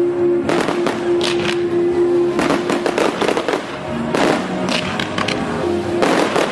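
Fireworks going off in quick succession, many sharp bangs and crackles, over music with long held notes.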